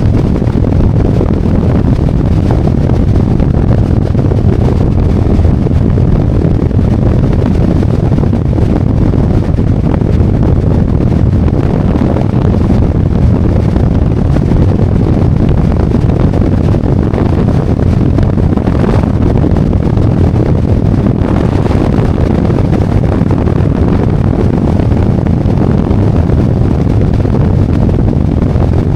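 Harley-Davidson Road Glide's V-twin engine running on the move, mixed with wind noise on the microphone; a loud, steady drone with no pauses.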